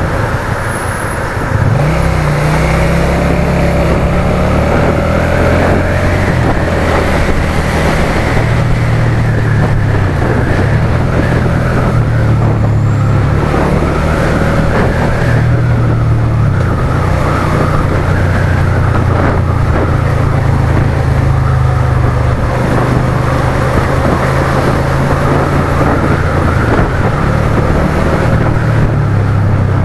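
Suzuki SFV650's 645 cc V-twin engine running under way, its pitch rising and falling with the throttle. It picks up sharply about two seconds in.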